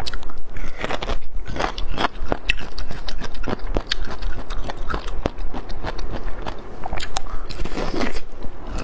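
Close-miked biting and chewing of a whole chili-oil-coated bamboo shoot, a dense run of sharp, irregular crisp clicks and crackles as the fibrous flesh is bitten and chewed.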